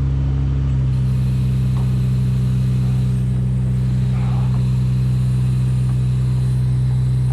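Engine running steadily at a constant speed, a loud, even drone that shifts slightly in tone about a second in.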